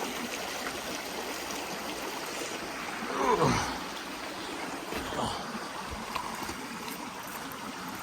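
Creek water running steadily over rocks. About three seconds in, a brief louder sound falls sharply in pitch over the water.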